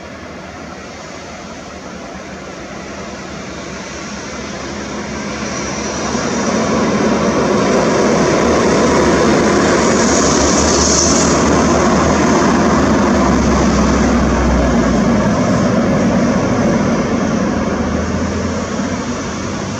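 Airliner's engines growing louder over the first several seconds as it comes in to land and passes close, staying loud for about ten seconds, then easing slightly near the end.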